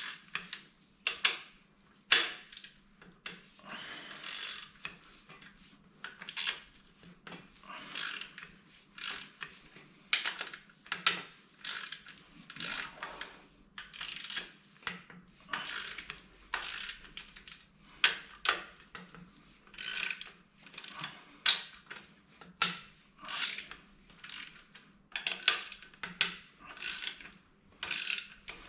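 Mechanic's hand tools working on engine parts during a strip-down: irregular bursts of metal clicking and clinking every second or two, with a few sharper knocks.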